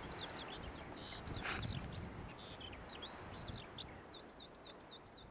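Small birds chirping in quick, repeated notes, several a second in the second half, over a low rumbling background noise.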